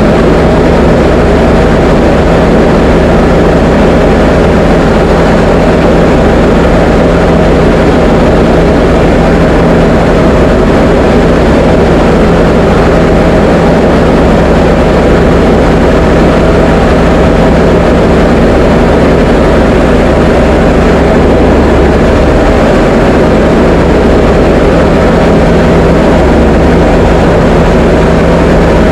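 Diamond DA20 light aircraft's piston engine and propeller droning steadily in flight, at an unchanging pitch and level.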